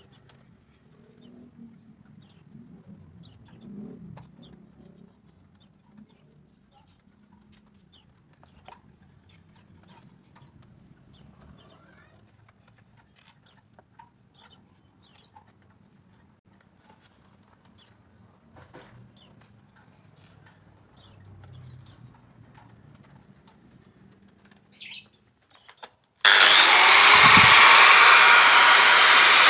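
Faint small-bird chirps, short quick downward notes scattered through, over a low hum. Near the end a loud electric power tool starts abruptly and runs.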